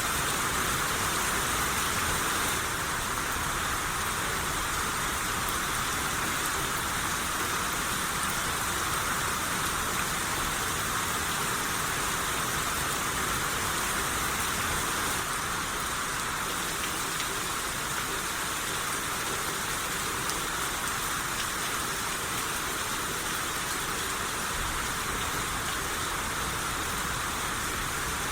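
Steady rain falling, a dense even hiss of rain with no thunder.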